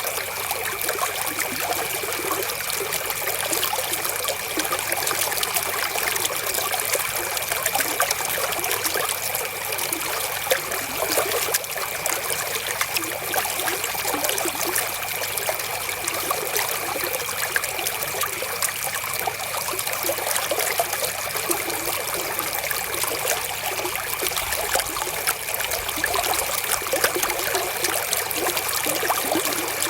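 River water flowing steadily, a dense even rush of small splashes, with a faint steady high tone running through it.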